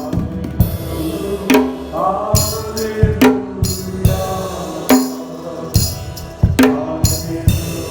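Drums and jingling percussion playing a driving rhythm, with voices singing over them.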